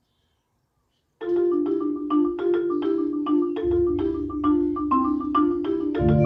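After about a second of silence, a mallet-percussion ensemble starts a fast, repeating pattern of struck wooden-bar notes, about five a second. A low sustained bass part comes in about halfway through and grows fuller near the end.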